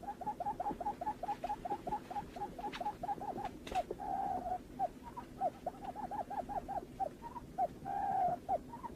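Barred buttonquail calling: a long run of short hooting notes, about four a second, broken twice by a longer drawn-out note.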